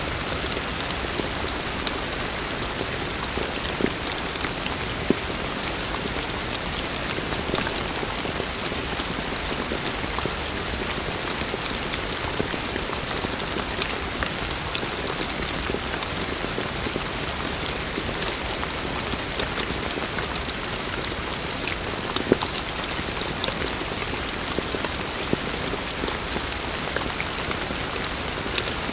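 Heavy rain falling steadily, a dense even hiss with the sharper ticks of single drops striking a surface close by; a few louder drop hits stand out.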